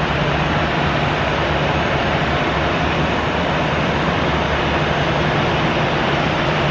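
Steady jet aircraft engine noise: an even rushing sound with a low hum underneath, holding at one level throughout.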